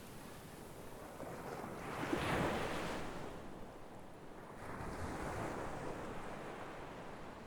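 Sea waves washing in, two swells of rushing water, one about two seconds in and a longer one about five seconds in, with some wind on the microphone.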